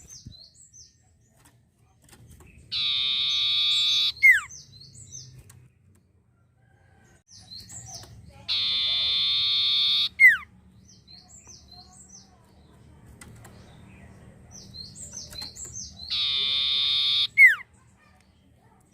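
Common iora (sirtu) singing: three times a long, held, buzzy note, each ending in a quick downward whistle, with soft short chirps between the phrases.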